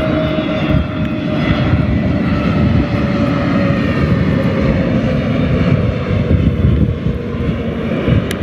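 Jet airliner's turbofan engines at takeoff thrust on a China Southern Airbus: a loud, steady rumble with a whining tone that slowly falls in pitch.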